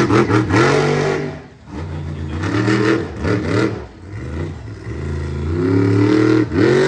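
Monster truck engine revving hard in several bursts, the pitch climbing and falling back each time, with a brief drop about a second and a half in.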